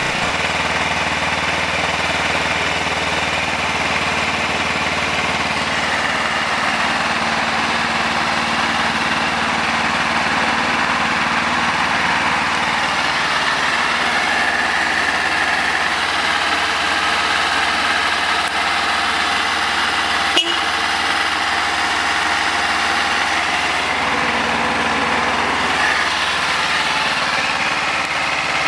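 Kawasaki Ninja 250R's fuel-injected parallel-twin engine idling steadily on a cold start, warming up after a month unused in freezing weather. There is one sharp click about two-thirds of the way through.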